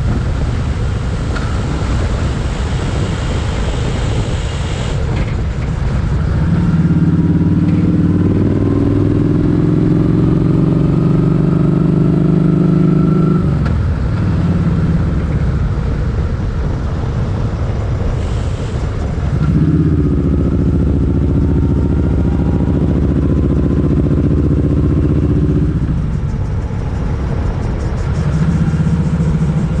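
Motorcycle engine running on the road with a constant rush of wind noise. The engine note pulls strongly from about seven seconds in and again from about twenty seconds in, each time dropping away suddenly as the throttle is closed or a gear is changed.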